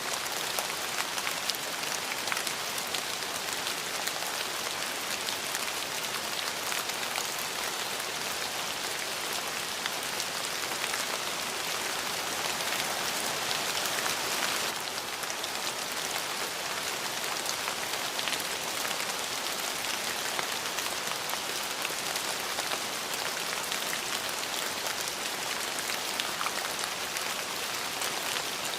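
Steady rain falling, an even hiss with many fine drop patters, swelling slightly and easing off a little about halfway through.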